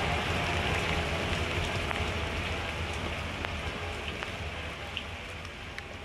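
Passenger train rolling away along the track, its wheel-on-rail noise steadily fading, with a few sharp ticks scattered through it.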